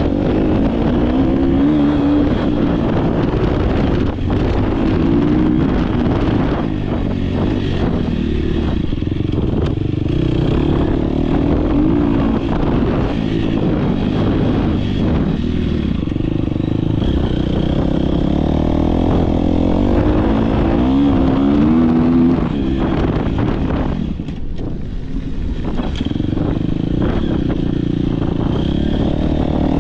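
Dirt bike engine ridden hard, revving up and dropping back over and over as the rider shifts and goes on and off the throttle. There is a brief drop in level about three-quarters of the way through.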